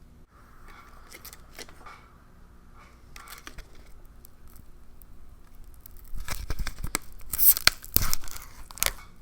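MRE ration packet being torn open and crinkled: faint rustling at first, then a run of loud, sharp rips from about six seconds in.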